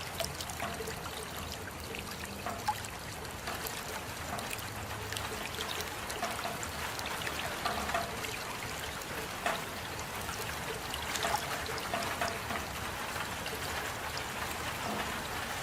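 Steady rain with water trickling and dripping, many scattered drops splattering over an even hiss.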